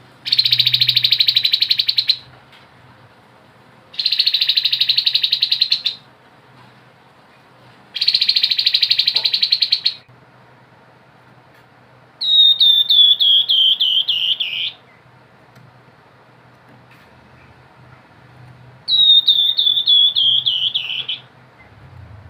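Grey-headed babbler (tepus kepala abu) singing: three rapid buzzing trills of about two seconds each, evenly spaced, then two phrases of quick repeated notes that slide downward in pitch.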